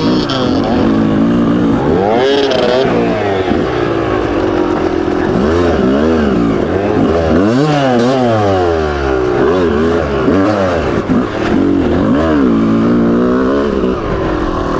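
Yamaha YZ250 two-stroke dirt bike engine being ridden, revving up and down over and over, its pitch rising and falling with each change of throttle.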